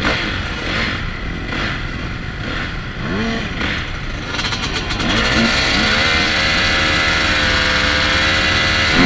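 Motocross bike engines revving up and down, then about halfway through one bike comes close and runs louder at a steady high rev.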